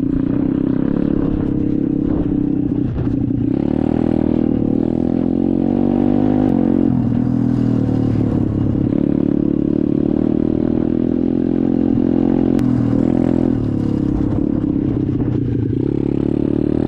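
SSR 125 dirt bike's single-cylinder engine running while riding, its pitch rising and falling several times with throttle and gear changes. A few knocks from the bike are heard over it.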